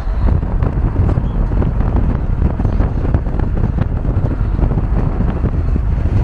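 Strong wind buffeting the microphone, a loud, rough, uneven rumble.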